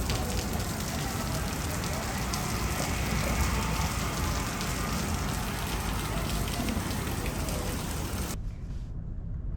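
Water pouring off a balcony from a flooding apartment, splashing down steadily like heavy rain. It cuts off abruptly about eight seconds in.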